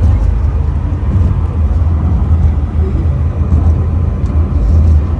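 Loud, steady low rumble of the Penang Hill funicular train carriage riding down the hill.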